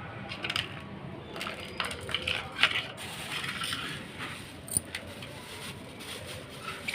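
Bird seed rattling and clicking as it is poured into a budgie's feeding cup, in uneven bursts of small hard ticks, busiest in the first half.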